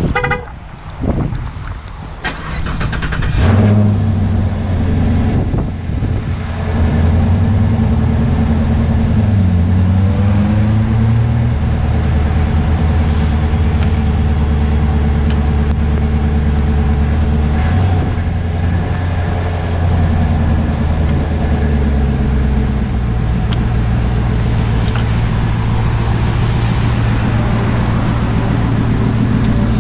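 Car engine being started: a few clicks, then the engine catches about three seconds in and settles into a steady idle, with a brief dip and rise in pitch a few seconds later.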